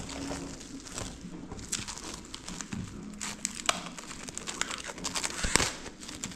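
Plastic wrap crinkling with scattered light clicks and knocks as vegetables are handled, one sharper knock about five and a half seconds in.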